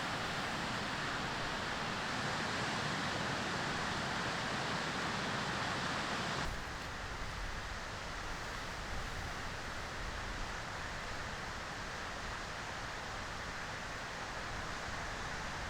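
Steady hiss of sea wind and surf at the shore, with no distinct events; it is louder for the first six seconds or so, then drops suddenly to a quieter, even level.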